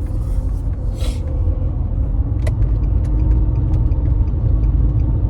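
Steady low road rumble of a car being driven, heard from inside the cabin, with a faint engine and tyre hum and a brief rush of noise about a second in.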